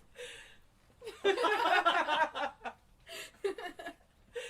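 A woman laughing. A short breath at the start, then a burst of rapid laughter about a second in that lasts a second and a half, then a few softer, shorter giggles.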